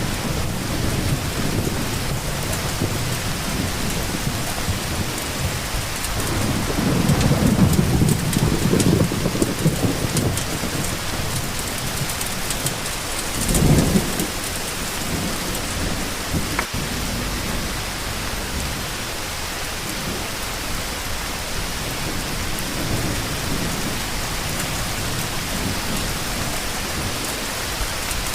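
Steady rain falling, with thunder rumbling low about a quarter of the way in and a shorter, sharper thunder burst about halfway through.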